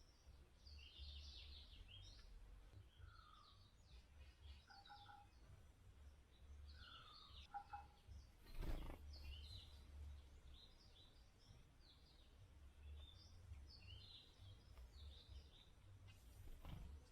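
Several wild birds chirping and calling, a faint busy chorus of short high notes with a few lower whistled notes, some of them sliding down. A sharp knock about nine seconds in, the loudest sound, and a weaker one near the end, over a low steady rumble.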